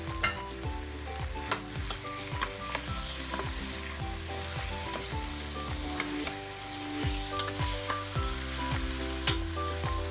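Chicken pieces sautéing with onions and garlic in a stainless-steel pot: a steady sizzle, with a metal spoon scraping and clinking against the pot as it stirs. Background music with a steady beat plays underneath.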